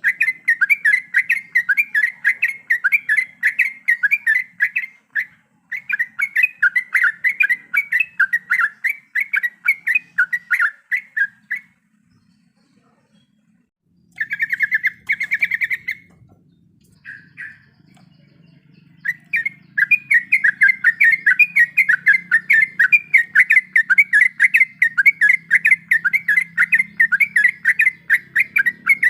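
Yellow-vented bulbul (trucukan) singing long, rapid rolling runs of chattering notes, breaking off twice in the middle for a couple of seconds before resuming.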